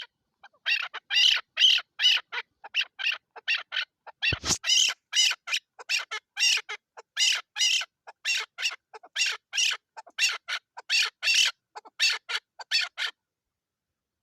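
Chukar partridge (chakor) calling, a rapid series of short harsh notes at about three a second that stops shortly before the end. A single low thump about four seconds in.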